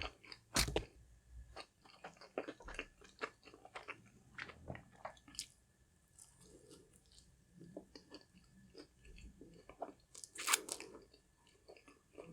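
Close-miked chewing of a crispy fried fish sandwich: a mouth crunching through the fried coating, with loud crunchy bites about half a second in and again near the end, and softer chewing crackles between.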